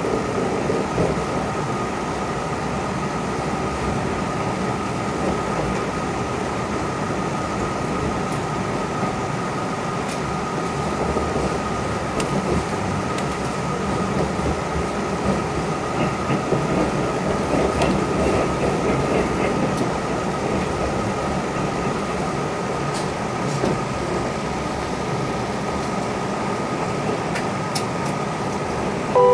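Inside an old passenger coach of the Hamanasu night express on the move: a steady rumble of wheels and running gear with a thin, constant high hum over it.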